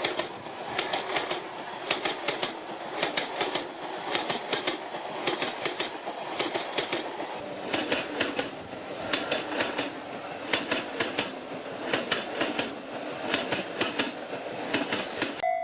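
A train running past, its wheels clacking over the rail joints in groups of sharp clicks about once a second over a steady rumble.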